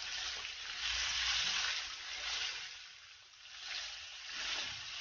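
Catfish fillets frying in hot oil in a cast-iron skillet as they are flipped with metal tongs: a steady crackling sizzle that swells and fades, dipping about three seconds in before picking up again.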